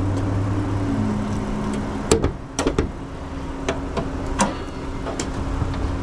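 Several sharp clicks and knocks, about seven spread over a few seconds, over the steady hum of an idling vehicle engine.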